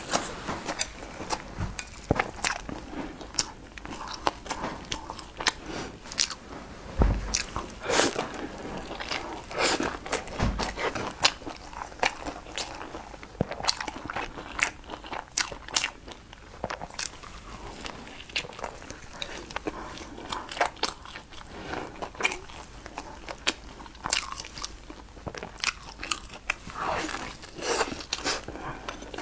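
Close-up eating sounds: a person biting and chewing food, with irregular crunches and clicks throughout. Two low thumps stand out near the middle.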